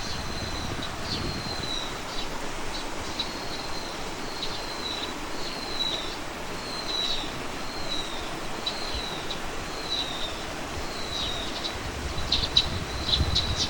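A songbird singing a repeated series of short whistled notes, each sliding downward, roughly one a second, breaking into quicker, sharper chips near the end, over a steady outdoor hiss.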